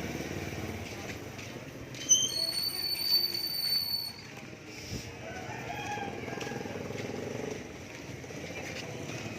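A rooster crows about two seconds in, with a high steady whistle lasting about two seconds; a fainter call follows a little later.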